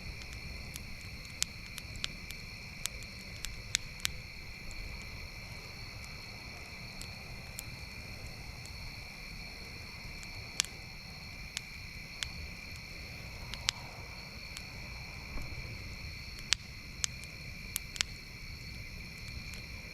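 Campfire crackling, with scattered sharp pops at irregular intervals, over a steady high-pitched insect chorus.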